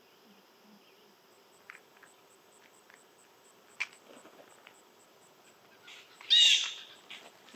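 A bird gives one short, loud call about six seconds in. Under it, faint insect chirping repeats about four times a second, with a few faint clicks earlier.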